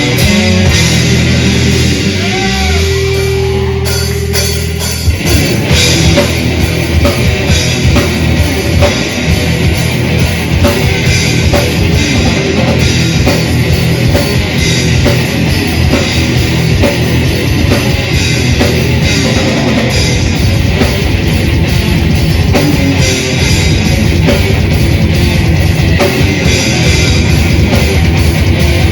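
Death/thrash metal band playing live: distorted electric guitars hold sustained notes, then about five seconds in the drums come in with a fast, driving beat and the full band plays on loudly.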